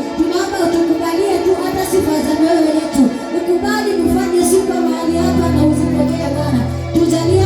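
Church worship music: voices singing over a band with percussion, and a low held bass note coming in about five seconds in.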